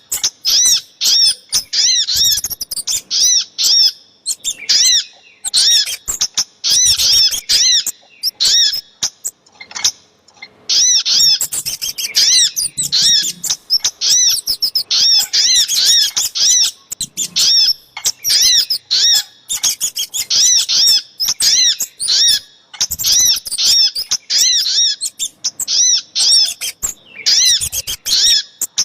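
Recorded calls of sogok ontong and kemade birds played as a trapping lure: rapid runs of high, arched chirping notes, several a second, in bursts broken by short pauses.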